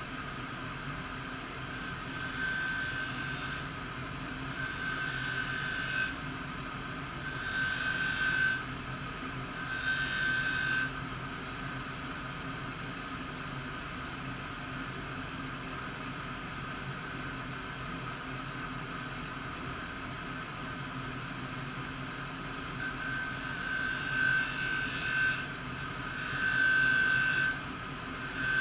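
A steel speargun shaft being sharpened. Separate rasping grinding strokes of a second or two each, with a ringing edge to them, come four times in the first eleven seconds and three more times near the end. A steady hum runs underneath.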